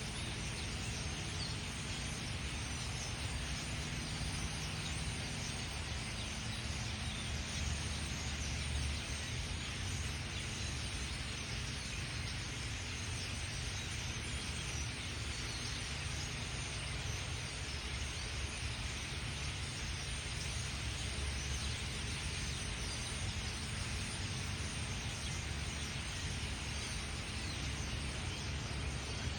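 Steady outdoor background noise with a low rumble, and faint bird calls here and there.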